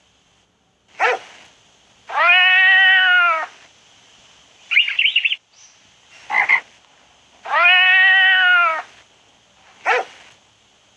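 An animal calling over and over, alternating short calls with long drawn-out ones. There are five or six calls in all, the two long ones each lasting over a second.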